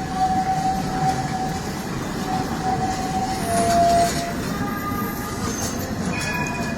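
Metro train running through the station: a steady rumble with high whining tones that come and go, loudest about four seconds in.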